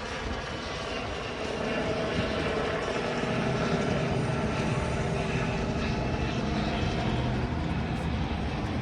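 Propeller airplane's piston engine running steadily, growing louder about two seconds in and then holding.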